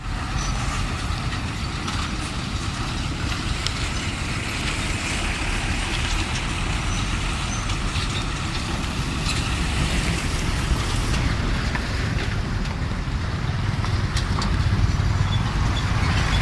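Dump truck's engine running steadily with a low rumble, getting a little louder near the end.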